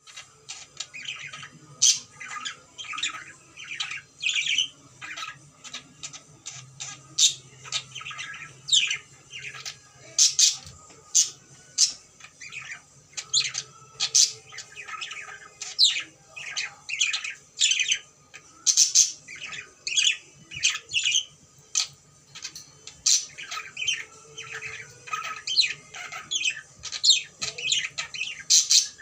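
Cockatiel squawking and chirping over and over, short sharp calls coming about once or twice a second.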